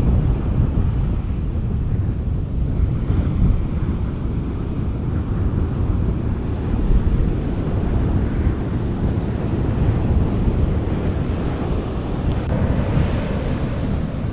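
Sea waves washing onto a beach, with a steady low rumble of wind on the microphone and hissing swells as waves run in, about three seconds in and again near the end.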